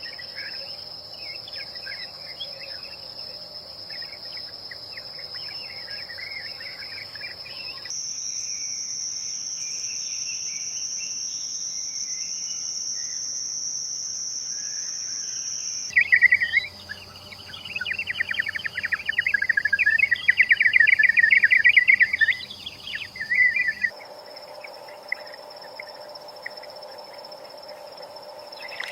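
A steady, high insect drone of crickets or cicadas with birds chirping over it. The ambience changes abruptly every eight seconds or so. From about halfway to near the end there is a long run of loud, rapid chirping.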